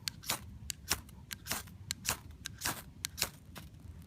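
Gerber ferrocerium rod being struck hard with its scraper, a quick series of sharp scrapes about three a second, throwing sparks onto birch-bark tinder to light a fire.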